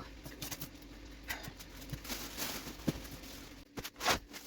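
Irregular light knocks, taps and rustling of household items being picked up and handled, with a brief rustle about two seconds in and another near the end.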